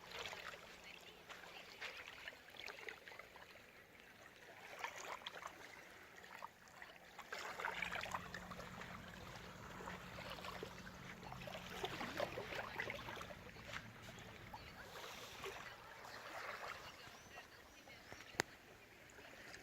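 Small sea waves lapping and washing in, swelling and ebbing every few seconds, with a steady low hum underneath and one sharp click near the end.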